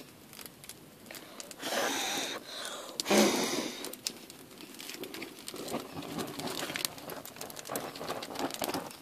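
Dry crinkling and crackling with scattered fine clicks, and two short louder rustling bursts about two and three seconds in.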